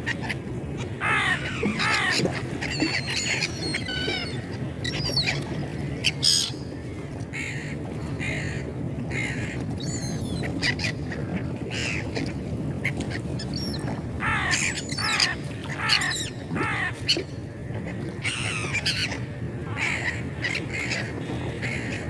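A flock of seagulls calling: many short, harsh squawks with falling pitch, bunched in busy clusters, over a steady low background rumble.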